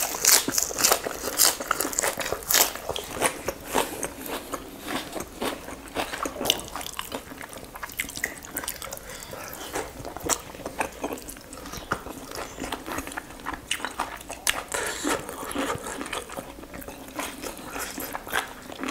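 Close-miked chewing and biting of roast whole chicken and lettuce: a steady run of crunches and wet mouth clicks, loudest in the first few seconds.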